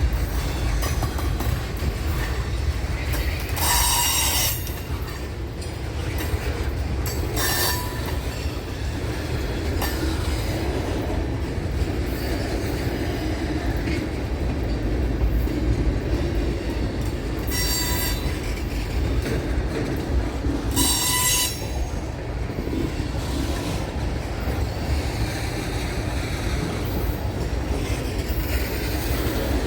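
Train rolling past with a steady rumble of wheels on rail, broken four times by short, high-pitched wheel squeals.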